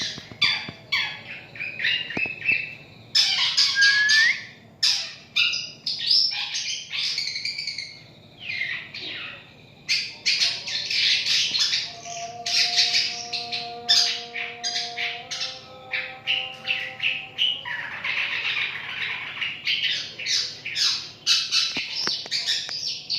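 Long-tailed shrike calling almost without pause, a harsh, rapid chattering mixed with squawks. About halfway through there is a stretch of steadier, lower held notes.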